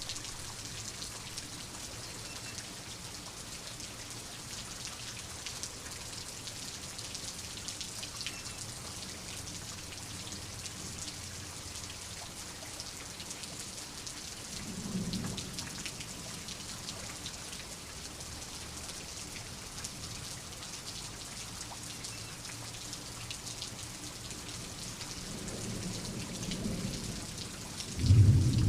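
Steady rain with dense pattering drops. Thunder rumbles low about halfway through, rumbles again from about 25 s, and breaks into a loud low clap near the end.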